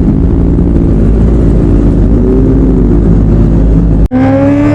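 Superbike engines running, the pitch rising and falling slightly. About four seconds in the sound cuts abruptly to a different steady engine note.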